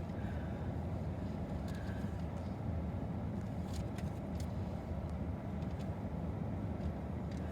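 Steady low rumble of a car idling while stopped, heard from inside the cabin, with a few faint clicks about four seconds in.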